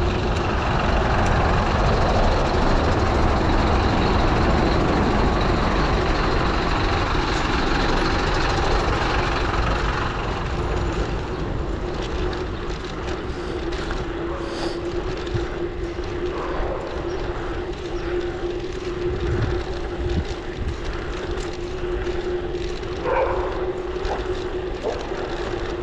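Wind and road noise of riding along a road, with a steady hum throughout. It is louder for the first ten seconds or so, then eases off, with a few faint short rattles.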